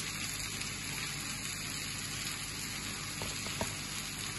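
Steady sizzle of onions and tomatoes frying in oil in a pan, with a couple of faint light taps about three seconds in.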